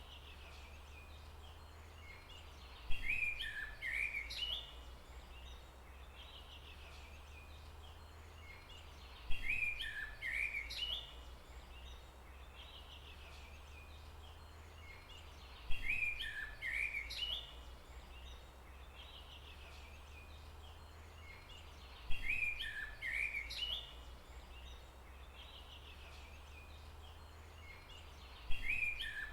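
Forest ambience: a songbird's short phrase of chirps comes back about every six seconds, five times, each time the same, over a steady low rumble.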